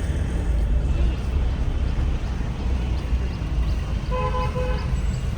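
Steady low rumble of road traffic, with a vehicle horn sounding a few quick short toots about four seconds in.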